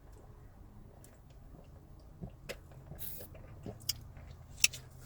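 Close-miked chewing of a crispy fried chicken sandwich, with scattered sharp mouth clicks and crunches, the loudest about four and a half seconds in.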